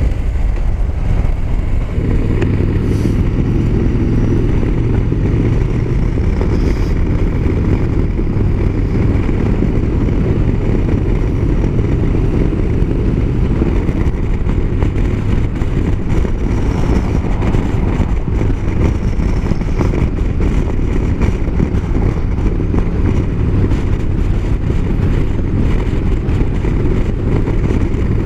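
Motorcycle riding at road speed: a loud, steady rush of wind buffeting the microphone over the engine and road noise.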